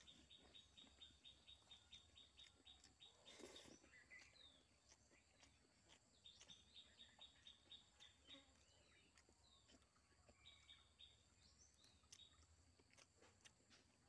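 Near silence with a bird's faint chirping: three runs of quick, evenly repeated high notes, and a brief soft rustle about three and a half seconds in.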